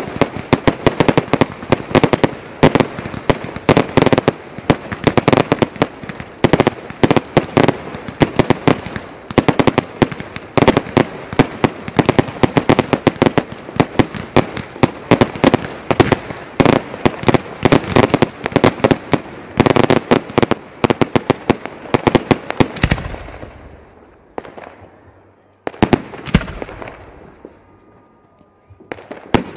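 Fireworks and firecrackers going off: a dense, rapid crackle of many overlapping sharp bangs, which thins out to a few separate bangs with trailing echoes over the last several seconds.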